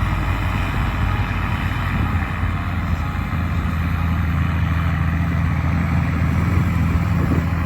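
Forage harvester's diesel engine and machinery running steadily at silage, a continuous low drone with a noisy hum above it.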